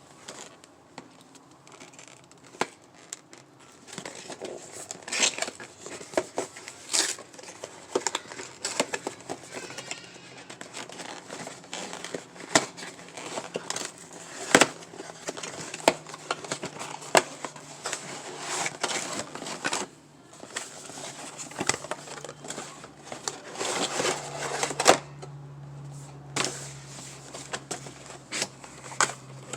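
Packaging of an epilator kit being opened and handled by hand: a plastic and cardboard box rustling and crinkling, with scattered sharp clicks and knocks.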